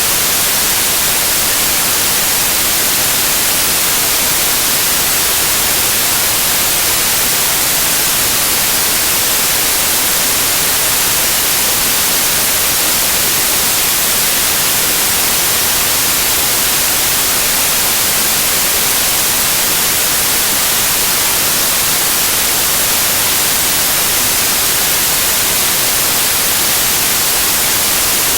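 Loud, steady white noise: an even hiss across all pitches, strongest in the treble, that never changes.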